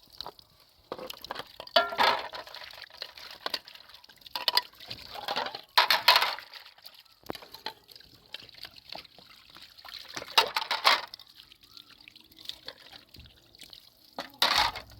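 Water pouring and splashing in irregular bursts a few seconds apart, with quieter gaps between.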